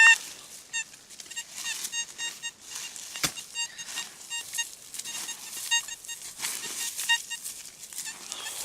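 Metal detector giving short beeps at one pitch, over and over in an irregular run, as it sweeps over a target in dug soil, with soft rustling underneath and one sharp click about three seconds in.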